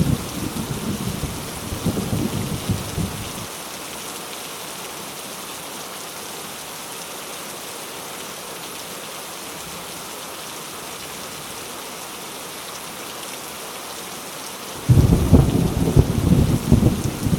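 Heavy rain falling steadily as an even hiss, with thunder rumbling at the start that stops about three seconds in, and a new peal of thunder breaking in suddenly near the end.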